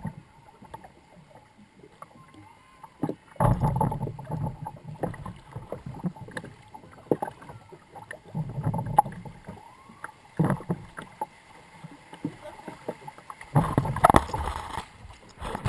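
Log flume boat in the water channel: irregular knocks and bursts of water and hull noise, with quieter stretches between them.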